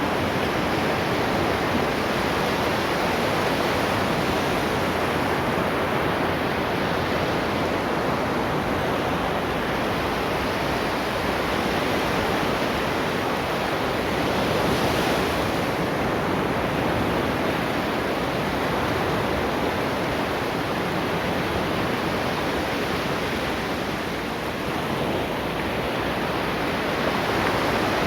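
Ocean waves breaking on the shore in a steady, continuous wash of surf, swelling slightly about halfway through.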